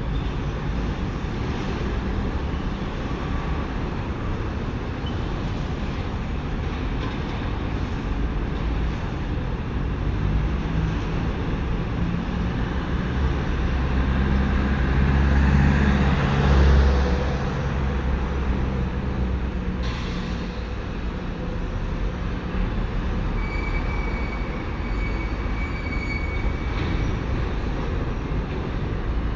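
Steady road traffic rumble, with a heavy vehicle's engine swelling as it passes close a little past halfway and then fading.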